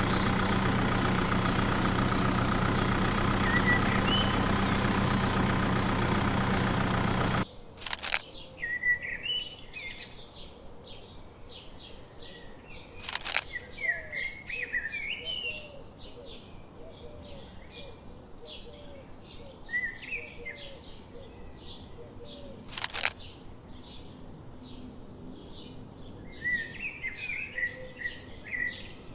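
A steady engine-like drone that cuts off abruptly about seven seconds in, followed by small birds chirping, with a sharp click every several seconds.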